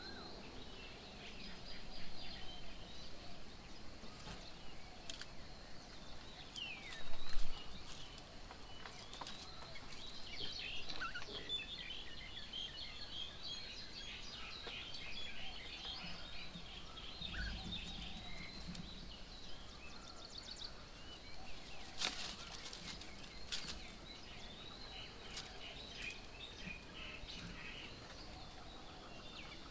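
Small birds chirping and twittering around a garden bird table, many short calls overlapping, with a few sharp clicks. A brief low thump about seven seconds in is the loudest sound.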